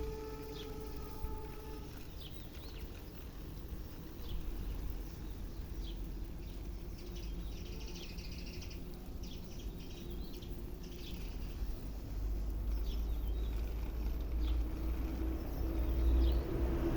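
Rural outdoor ambience: birds chirping in short scattered calls over a low rumble, with a held tone in the first two seconds. Near the end a vehicle approaches, its noise rising.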